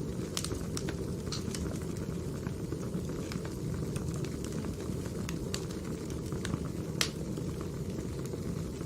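Burning firewood: a steady low rush of flames with scattered sharp crackles and pops, the loudest pop about seven seconds in.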